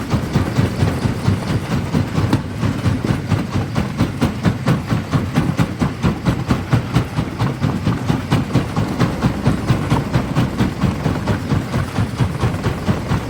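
Large primary jaw crusher running and crushing rock: a heavy, low mechanical grinding with a fast, even pulsing rhythm and crunching and clattering of stone.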